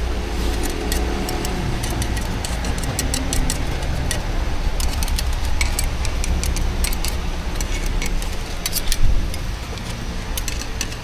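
Steady low rumble with many short, sharp clicks and clinks of cooking utensils working at a street-food griddle, and one louder knock about nine seconds in.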